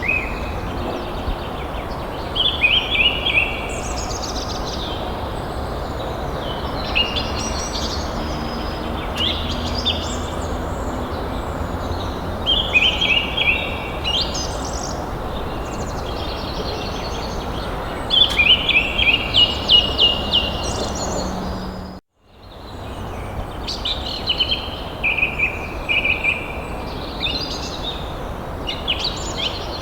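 Songbirds singing in short, repeated chirping phrases every few seconds over a steady outdoor background hiss. About two-thirds of the way through, the sound cuts out completely for a moment, then fades back in.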